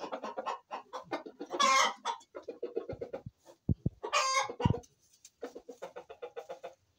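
Chickens clucking in a rapid, steady stream, broken by two loud harsh calls about two and four seconds in and a few dull thumps. The clucking pauses briefly just after the second call, then starts again.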